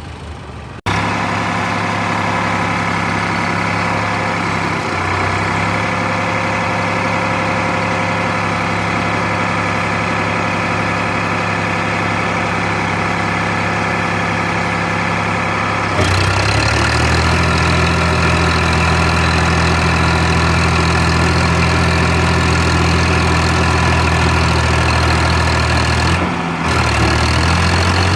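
Tractor engine running steadily at a constant speed. The sound jumps abruptly about a second in and again about halfway through, after which the engine is louder and deeper.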